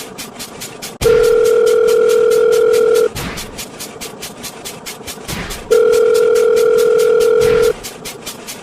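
A steady electronic telephone-style tone sounds twice, each about two seconds long with a gap of about two and a half seconds, over a fast, even train of counter ticks at about five a second.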